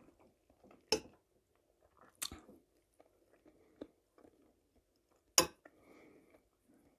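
Close chewing of soft spaghetti and fried wild mushrooms, with three sharp clicks spread through it, the loudest near the end.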